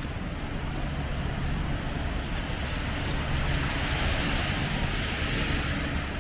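Street traffic on a snowy city street: a steady low rumble with a hiss that swells about halfway through and fades again.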